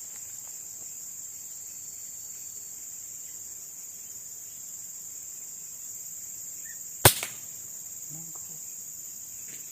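A single sharp shot from an air rifle about seven seconds in, brought down a green pigeon, over a steady high drone of insects.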